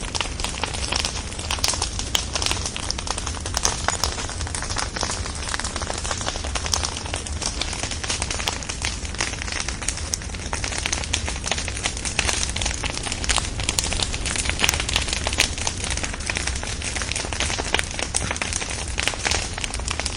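Bonfire burning, with dense, irregular crackles and pops from the logs over a steady hiss of flame.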